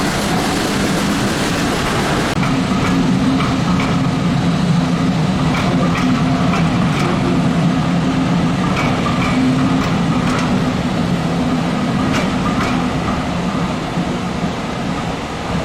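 Steam train with locomotive 34027 Taw Valley, a rebuilt Bulleid West Country class Pacific, rolling into the station. A steady low rumble runs throughout, with a high hiss over the first couple of seconds and scattered short squeaks and clicks from wheels and brakes through the middle.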